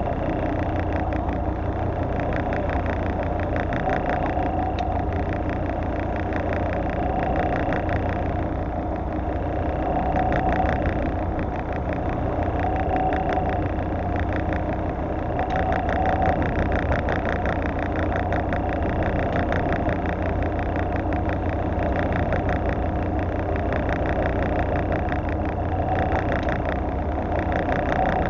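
Fishing boat's engine running steadily, a constant low drone with a fast, even pulse.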